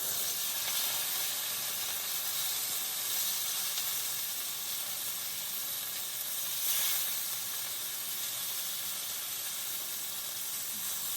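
Food frying in a pan on the stove, a steady sizzle with a brief swell about seven seconds in.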